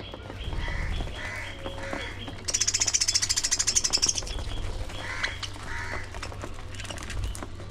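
Budgerigars chirping and chattering, with short repeated chirps. About two and a half seconds in, a loud, high, rapidly pulsing buzz runs for about a second and a half. A low rumble runs underneath.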